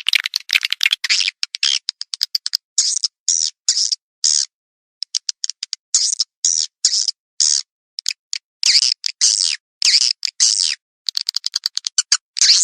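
Swiftlet calls of the kind played to lure edible-nest swiftlets: rapid high twittering chirps in short bursts under half a second each, repeated with brief gaps, packed closer together near the start and again near the end.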